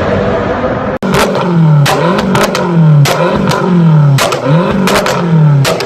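A car engine revved in quick blips, its pitch repeatedly rising and falling, with loud sharp exhaust bangs from backfire, about ten of them, several coming in close pairs as the revs drop.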